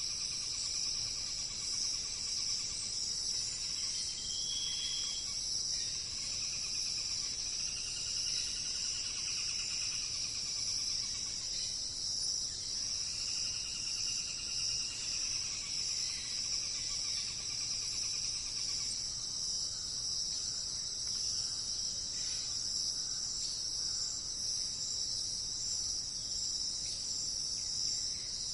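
Forest insect chorus, crickets or similar, keeping up a steady high-pitched trilling drone. Fainter, lower trilling calls come and go over the first two-thirds.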